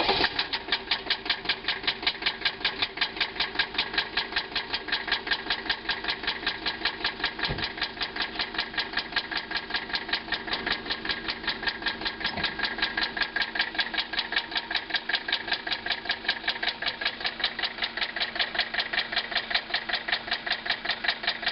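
Mercedes 300TD five-cylinder diesel engine running with a loud, steady, even knock of about three to four beats a second. After being driven on low oil, it makes a noise the owner suspects is rod knock.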